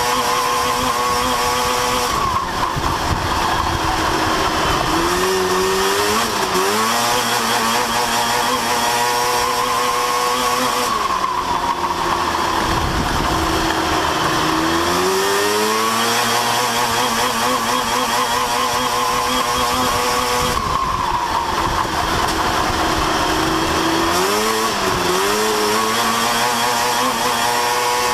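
Race truck engine at speed, falling in pitch as the driver lifts for the turns and climbing again under acceleration down the straights. The cycle repeats about every nine to ten seconds, lap after lap.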